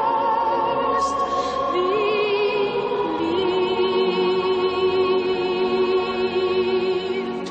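Background music of a choir singing long held, slightly wavering notes.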